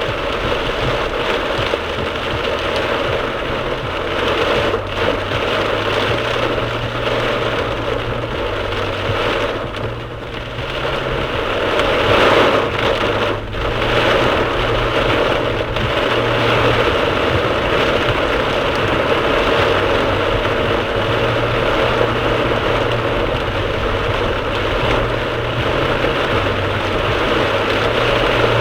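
Heavy downpour on a moving car, heard from inside the cabin through a dashcam: a steady hiss of rain on the roof and windscreen over a low rumble of road and engine noise.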